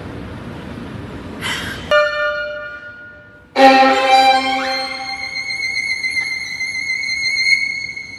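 Orchestral film-score music: a violin enters strongly about three and a half seconds in and holds a high note with vibrato, after a shorter pitched note that fades away.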